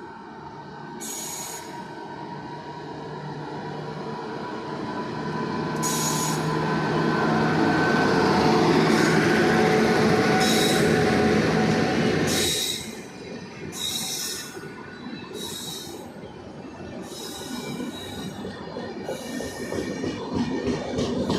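Train running past on the rails, with steady wheel squeal over a rumble and repeated clicks of wheels on rail joints. It grows louder to a peak, drops off suddenly about twelve seconds in, then builds again.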